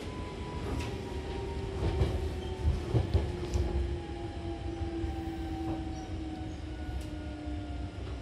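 Hankyu commuter train running, heard from inside the car by the doors: a steady low rumble from the wheels and running gear, a few sharp clacks over rail joints a couple of seconds in, and a motor whine that slowly falls in pitch as the train slows.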